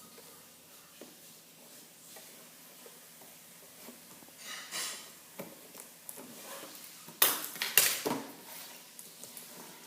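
Plastic toys and packaging being handled: soft rustling and light knocks, a brief rustle about halfway, then two sharp plastic clacks close together near the end.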